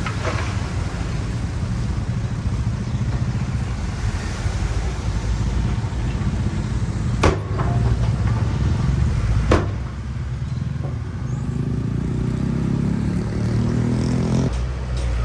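Heavy diesel engine of earthmoving machinery running under load, with two sharp knocks a couple of seconds apart midway. Near the end the engine revs up with a rising pitch, then drops back suddenly.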